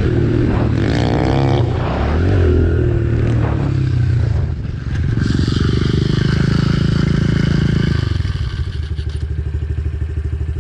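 Pit bike's small single-cylinder four-stroke engine revving and running hard, the pitch rising and falling with the throttle, then dropping to a steady lower, evenly pulsing idle about eight seconds in.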